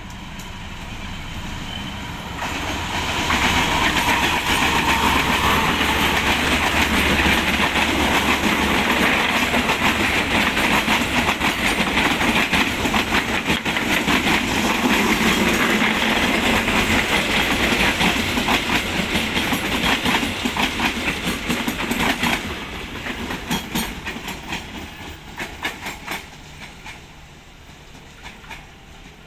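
Passenger train hauled by a CC201 diesel-electric locomotive passing close by. The noise builds over the first few seconds as the locomotive arrives, then becomes a loud, steady rumble and rattle of coach wheels on the rails. About two-thirds of the way in it fades, with separate clickety-clack clicks of wheels over the rail joints as the last coaches pull away.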